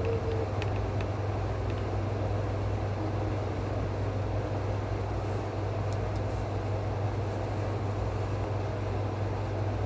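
Steady low droning hum over a constant noisy rush, with a few faint clicks just after the start.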